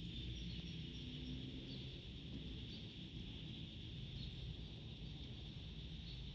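Steady high-pitched insect chorus with scattered short bird chirps, over a faint low steady rumble.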